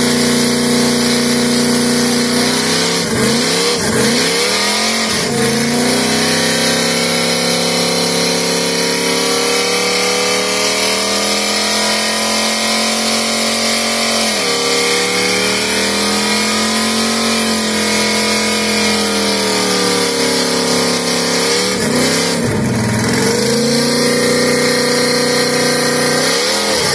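Chevrolet Nova's V8 held at high revs in a burnout, the rear tyres spinning and smoking. The revs sag and climb back several times: around three to five seconds in, about halfway, and again around twenty-two to twenty-four seconds.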